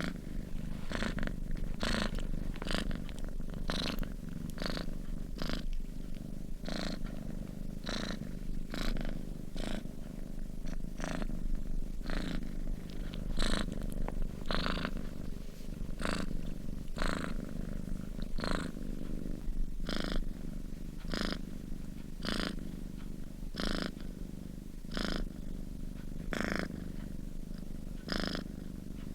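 Domestic cat purring steadily, a low continuous rumble with a short breathy rasp on each breath in and out, about two a second.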